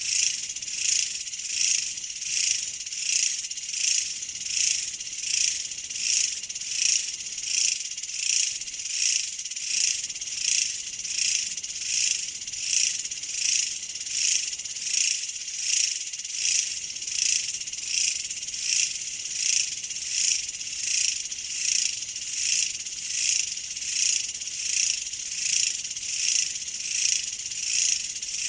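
A chorus of insects shrilling high-pitched, swelling and fading in an even, steady pulse a little faster than once a second.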